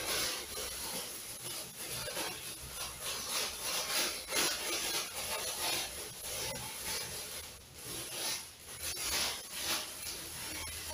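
A person chewing crispy fried chicken (ayam geprek) with a run of irregular, rasping crunches, several a second.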